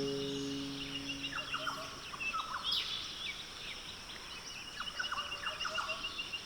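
Wild birds chirping: many short, falling chirps and a fast, high, repeated trill, with a held music chord fading away over the first two seconds.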